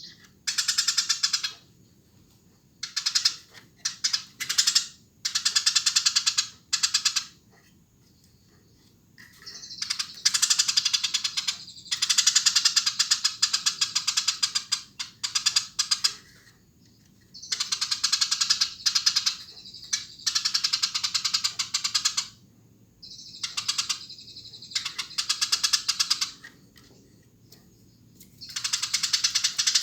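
Eurasian tree sparrow chirping vigorously in fast, dense runs of a few seconds each, broken by short pauses.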